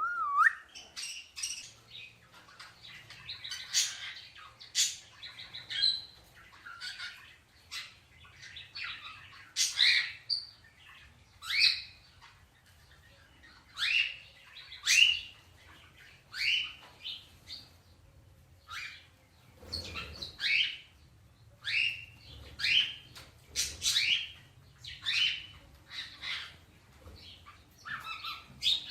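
Pet parrots calling: a long series of short chirps and squawks, many sweeping upward in pitch, about one or two a second.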